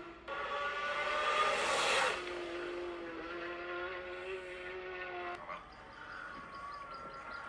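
Motorcycle engines running at high revs with a steady whine, the pitch gliding and then holding. The sound breaks off abruptly just after the start and again about five and a half seconds in.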